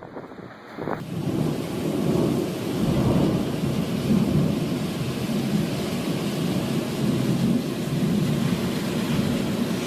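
Storm noise: a steady hiss like heavy rain over a continuous low rumble like thunder, starting about a second in.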